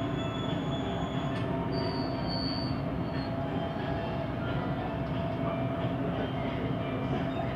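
Siemens Inspiro metro train running at speed, heard from inside the passenger car: a steady rumble with a constant hum. Thin high-pitched tones sound over it, one cutting off about a second and a half in and a short squeal about two seconds in.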